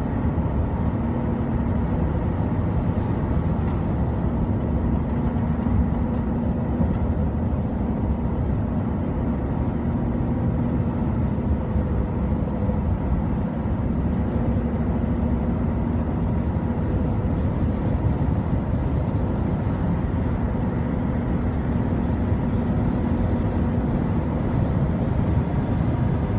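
Steady road noise of a car driving at highway speed: an even low rumble of tyres and engine, with a faint steady hum.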